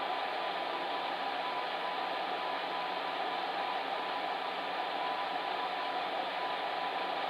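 Electric fan heater running steadily: an even rush of blown air with a faint constant hum.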